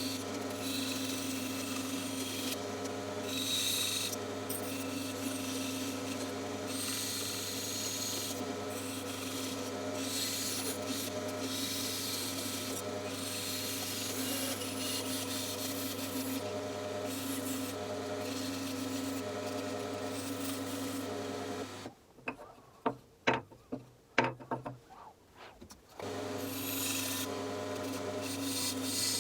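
Bandsaw running and cutting wood: a steady motor hum under the hiss of the blade going through the wood. About three-quarters of the way through it drops away for a few seconds, leaving a handful of clicks and knocks, then the saw is running again.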